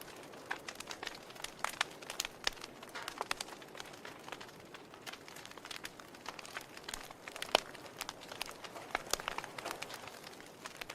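Wood logs burning in a fireplace, crackling with irregular sharp pops over a soft steady hiss of the flames; one louder pop comes about two-thirds of the way through.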